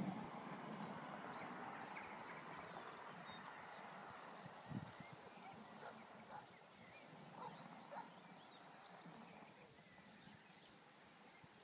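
A soft, distant outdoor background hiss that fades away. About halfway through, a bird starts a run of short, high-pitched calls, about two a second.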